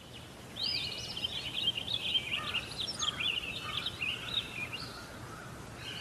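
Small birds chirping and twittering in a fast run of short, quick rising and falling notes that begins about half a second in and thins out near the end, over a steady low hum.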